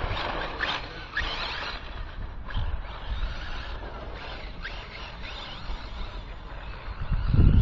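RC buggy with a brushless Medusa motor on a 6S pack being driven: hissing bursts of tyre and ground noise with a few brief whines as it accelerates, loudest in the first two seconds. A low rumble comes in near the end.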